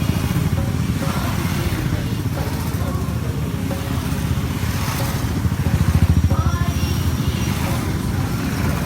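A crowd of motorcycle engines running together, a steady deep rumble of rapid firing pulses that swells briefly about six seconds in, with voices faintly over it.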